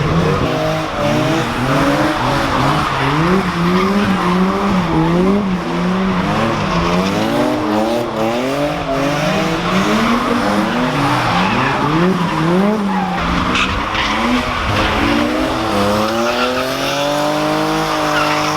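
Car spinning its tyres hard, its engine revved up and down again and again over a continuous tyre squeal.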